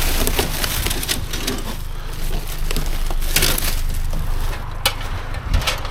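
Scrap pieces being rummaged out of a dumpster: scraping and rustling debris with a few sharp knocks, over a steady low hum.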